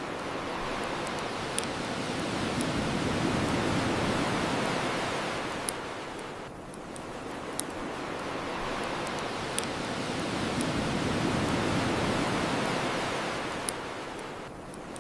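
Ocean waves washing onto a shore in two slow swells that rise and ebb, with sharp, isolated pops from a crackling bonfire every couple of seconds.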